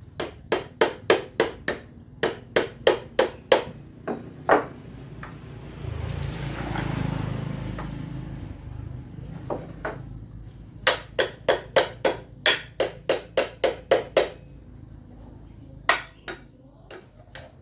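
Repeated hammer blows in two quick runs of about a dozen strikes each, roughly three a second, with a single blow near the end. Between the runs comes a rushing noise that swells and fades.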